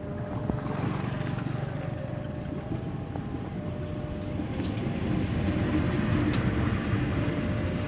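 KA Mataram passenger train running past on the track: a steady rumble of wheels on rails that grows a little louder, with a few sharp high clicks in the second half.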